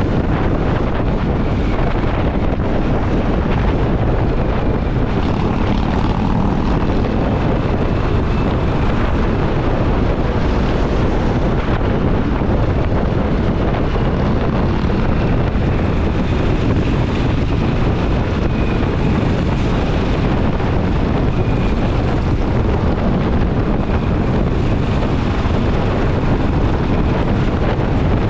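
Motorcycle cruising at a steady speed: engine and exhaust drone mixed with heavy wind rush on the camera's microphone.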